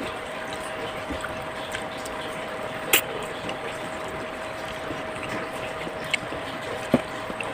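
A steady background hum with a few sharp clicks, like utensils knocking on a plate while eating: one loud click about three seconds in and two more near the end.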